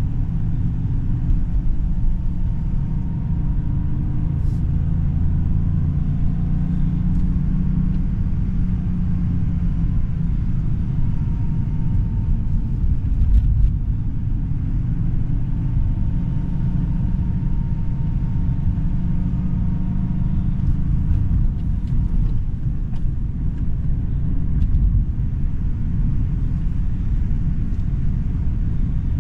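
Stock Toyota GR Yaris's 1.6-litre turbocharged three-cylinder G16E-GTS engine running at low, fairly steady revs with road rumble in slow city driving. A faint tone drifts slightly up and down, and a few faint ticks come through.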